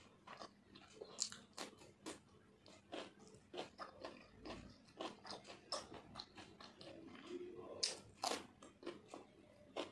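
Close-up mouth sounds of someone chewing food: a steady run of short wet clicks and smacks. Near the end come two louder crisp crunches as she bites into a slice of raw cucumber.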